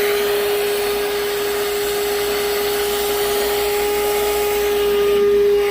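An electric motor running steadily with rushing air and a constant high hum, without letting up.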